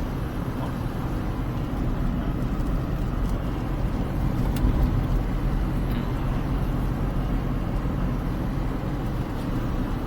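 Smart car driving along at a steady speed: a steady low rumble of engine and road noise.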